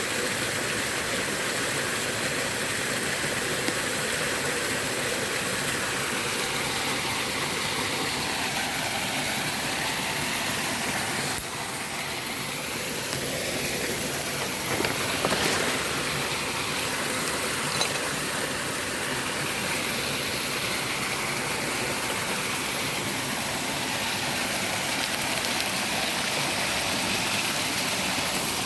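Steady rush of water flowing down a small stream waterfall.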